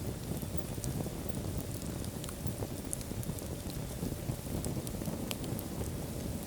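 Wood fire crackling in a fireplace: a steady low rumble of burning with sharp crackles and pops scattered at irregular moments.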